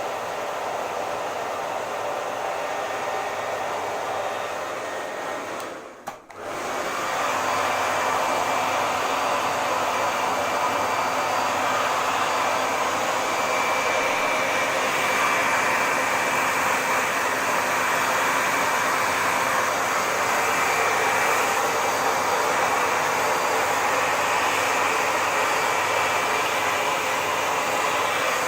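Hair dryer running with a steady whooshing blow and a faint high whine. About six seconds in it drops away for a moment nearly to silence, then comes back slightly louder.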